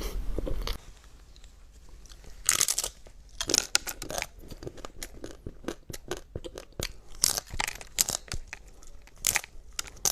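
Close-up chewing of crunchy food, with a run of irregular crunches and mouth sounds.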